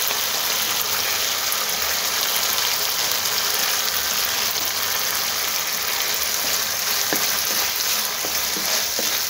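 Chilli chicken with peppers and onions sizzling steadily in a pan as the liquid released from the chicken and vegetables cooks off, with a few faint clicks near the end.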